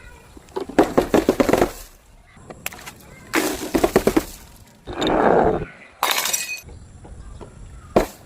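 Glass bottles being crushed, breaking and crunching in several separate bouts of rapid cracks, with a steadier rushing noise in the middle and one sharp crack near the end.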